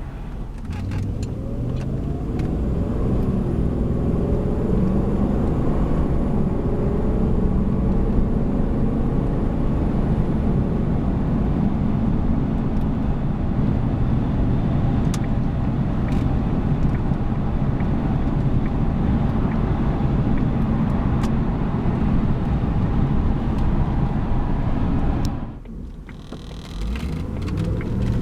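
1997 Jaguar XK8's 4.0-litre V8 pulling the car along the road. Its note rises over the first few seconds, then holds steady. Near the end the sound drops away briefly and then climbs again.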